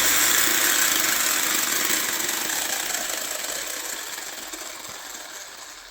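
Brushless motor and drivetrain of a 1/14 scale RC monster truck running on a 3S battery, a high whir that fades steadily over several seconds.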